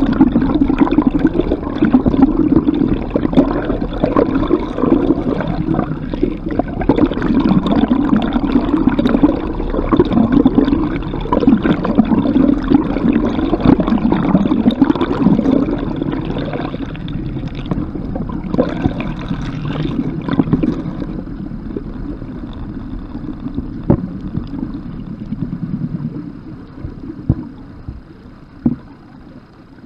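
A boat's motor running under way, with water rushing along the hull. The sound eases off about two-thirds of the way through and drops lower near the end.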